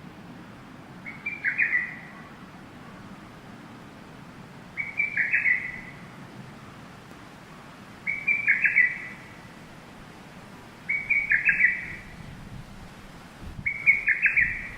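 A bird calling: a short burst of rapid chirping notes, repeated five times about every three seconds.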